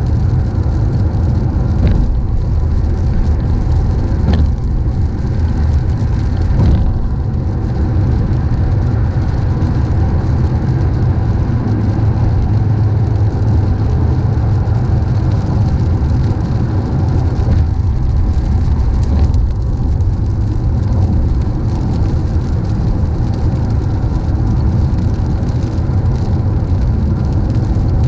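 A car driving along the road, with a steady low rumble of tyres and engine. A few faint clicks come in the first several seconds.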